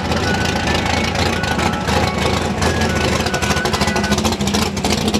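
Car engine idling steadily, with a dense outdoor background.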